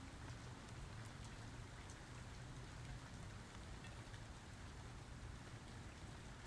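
Faint, steady rain with scattered ticks of single drops, over a low, steady rumble.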